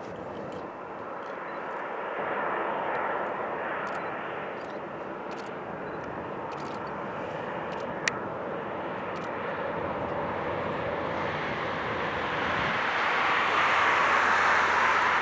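Jet airliner engine noise, steady and swelling louder near the end as the aircraft comes closer. A single sharp click about eight seconds in.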